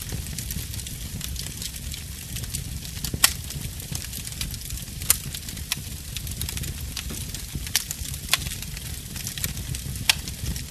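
Wood fire in a fireplace crackling: a steady low rumble and hiss with about six sharp pops scattered through, the loudest about three seconds in.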